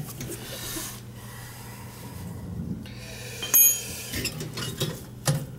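Hands working aluminium pilot tubing at a gas boiler's gas valve: rubbing and scraping of metal, with one sharp metallic clink about three and a half seconds in, over a low steady hum.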